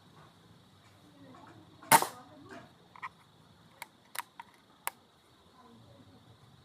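A single shot from a PX100 air rifle, a sharp crack about two seconds in, followed by several lighter clicks and knocks over the next few seconds.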